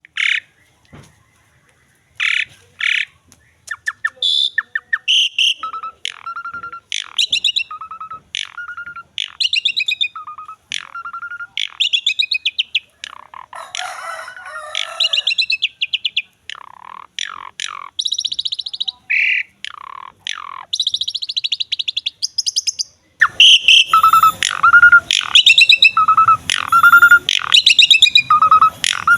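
Asian pied starling (jalak suren) singing: a varied, continuous string of short whistles, chirps and rasping notes with short gaps between phrases, turning louder and denser in the last six seconds.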